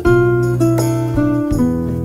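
Background music: acoustic guitar strummed and picked, a new chord sounding about every half second.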